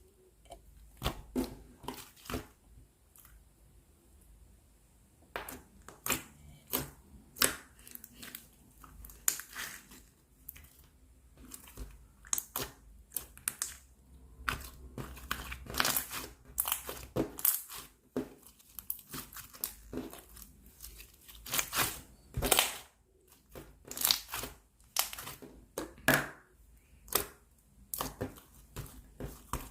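Clear slime being squeezed and stretched by hand, giving irregular sticky pops and crackles with short pauses between handfuls.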